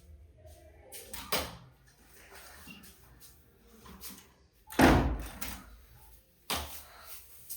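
A few separate knocks and thumps, the loudest about five seconds in with a short ringing tail, like a door being banged.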